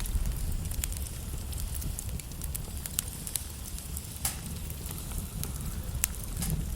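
Wood logs burning in a fireplace: crackling with scattered sharp pops over a steady low rumble of the flames, the loudest pop about four seconds in.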